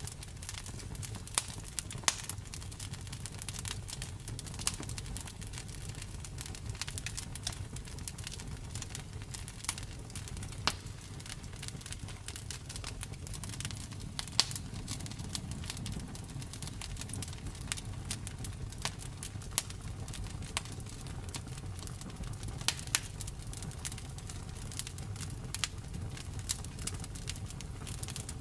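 Wood fire crackling: a low steady rumble of burning logs with frequent sharp, irregular pops and snaps.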